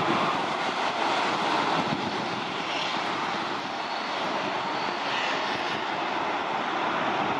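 Military jet aircraft taking off in a mass launch: loud, steady jet-engine noise that holds without a break.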